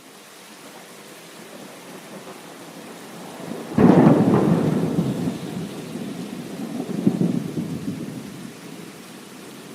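Steady hiss of heavy rain. About four seconds in, a sudden thunderclap breaks out and rolls into a low rumble, which swells again around seven seconds before dying back into the rain.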